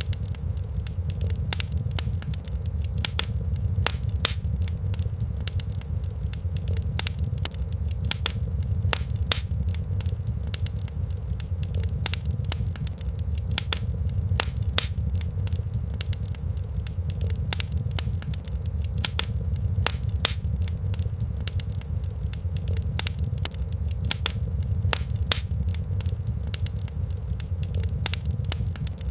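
Wood fire crackling in a fireplace, with frequent sharp pops and snaps at irregular intervals over a steady low rumble.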